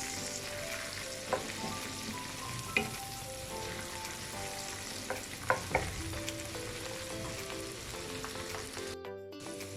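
Sliced onions, peppers, cherry tomatoes and garlic sizzling in oil in a frying pan, with a few short clicks of a spoon against the pan. The sizzle cuts out briefly near the end.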